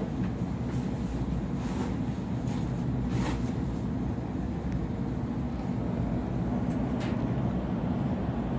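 Steady low hum inside a Sydney Trains Waratah A set carriage standing at the platform, from the stationary train's on-board equipment, with a short click about three seconds in.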